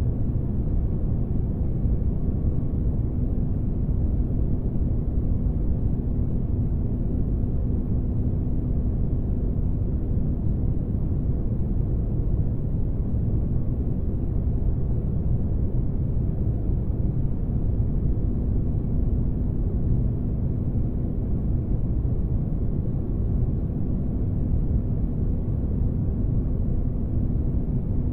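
Synthetic spaceship-engine ambience: a steady, unchanging deep rumble with a faint constant hum.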